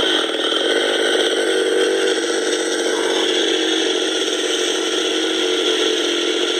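Chainsaw engine running steadily with a rattling, fast-pulsing drone.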